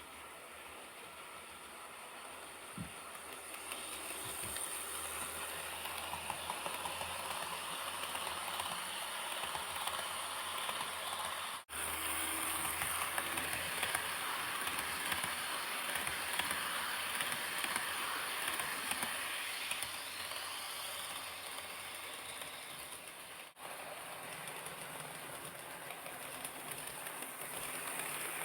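HO-scale model train, a D51 steam locomotive model pulling 12-series coaches, running along the track: a steady rolling rumble of the wheels with fine clicking, swelling and easing as it goes. The sound cuts out briefly twice, about twelve and twenty-four seconds in.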